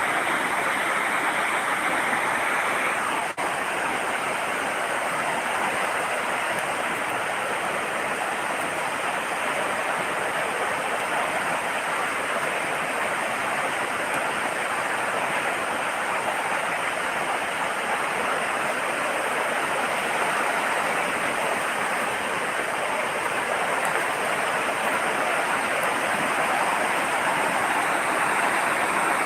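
Fast-flowing river in spate after heavy rain, its water rushing with a steady, unbroken noise.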